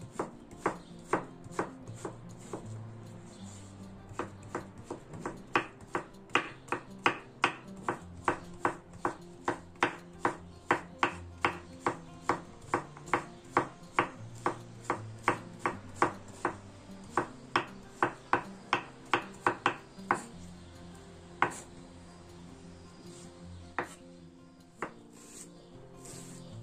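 Knife chopping zucchini into small cubes on a wooden cutting board: quick, even strokes about two a second that stop about three-quarters of the way in, followed by a few scattered cuts. Soft background music plays underneath.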